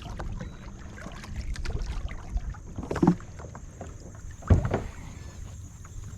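Wind rumbling on the microphone and small sounds of a kayak on the water, with two sharp knocks about three and four and a half seconds in, the second the loudest.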